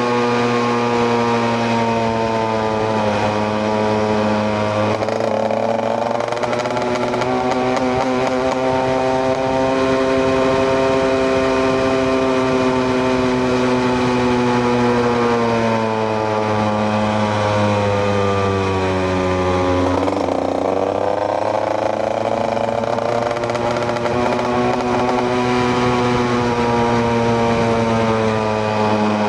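KTM EXC 125 two-stroke single-cylinder motorcycle engine running under way. Its pitch dips sharply about 3 seconds in and again about 20 seconds in, then climbs as the bike picks up speed, and falls slowly through the middle stretch.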